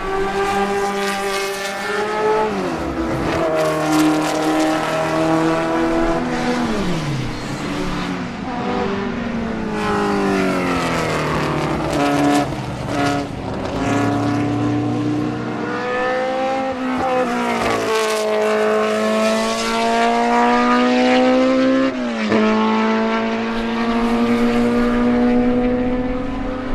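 BMW M12/7 2.0-litre four-cylinder Formula 2 racing engine at high revs, its pitch climbing and falling again and again as the car accelerates and slows. There is a sudden drop in pitch near the end, followed by a renewed climb.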